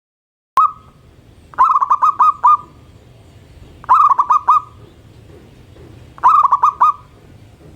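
Zebra dove (perkutut) singing: three phrases of quick, staccato cooing notes, each phrase a run of four to six notes, about two seconds apart. The sound starts with a click about half a second in.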